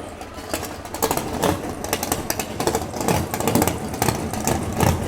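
Loud car engine running at an uneven idle, its exhaust popping irregularly over a low rumble.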